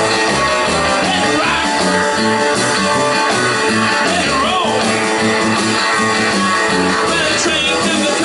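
Live rock and roll band playing, with a guitar prominent over a steady, pulsing bass line.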